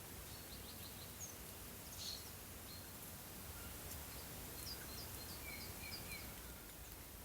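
Small birds chirping over a faint steady background rumble. Scattered short high notes give way to quick runs of repeated chirps after about four and a half seconds.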